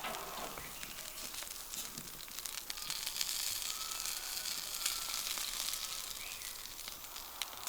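Food sizzling over a campfire, a steady hiss peppered with small crackles that grows a little louder midway through.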